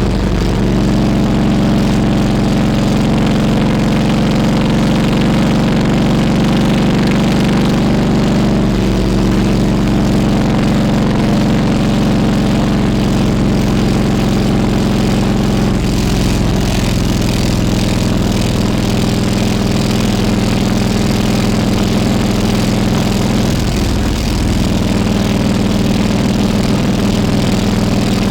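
Harley-Davidson Road King Classic's V-twin engine running steadily, its pitch stepping slightly about a second in and again near the end.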